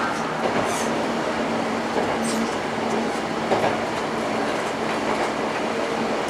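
Steady running noise of a diesel railcar on the move, wheels rolling on the rails, heard from inside the car, with a couple of brief high squeaks.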